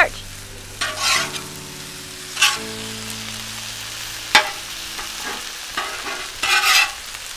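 Chicken stir fry and fried rice sizzling on a Blackstone flat-top griddle, with a metal spatula scraping across the steel and clicking sharply against it a few times as the food is stirred.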